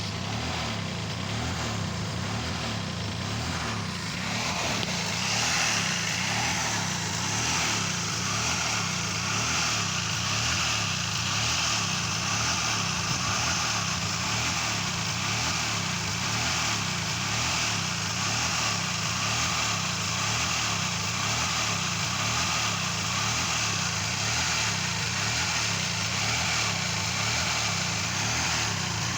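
1992 Mazda MX-3's 1.8 L V6 idling steadily, with a steady hiss above it that grows louder about five seconds in. The owner puts its raised idle down to a vacuum leak.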